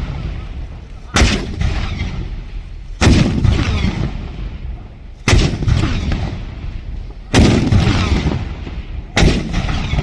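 Cannons firing one after another: five blasts about two seconds apart, each followed by a long rumble that dies away before the next shot.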